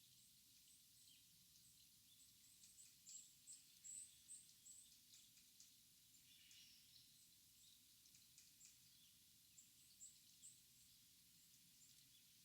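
Small wild birds calling faintly: runs of short, high-pitched chirps, busiest about three to five seconds in and again around ten seconds, with one call that dips and rises in pitch near the middle, over a faint steady hiss.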